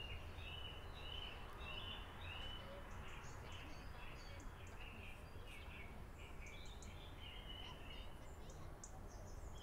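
Small birds chirping, a run of short repeated calls about two a second at first, then more varied and higher notes, over a steady low background rumble.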